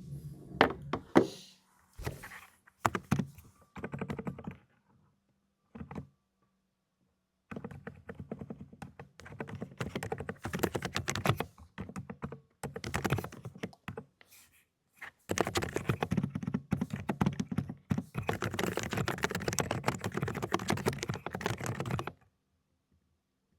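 Fast typing on a Dokgeomi (AULA) mechanical keyboard with silent cotton-candy switches: dense runs of muted keystrokes in bursts, with short pauses, stopping shortly before the end.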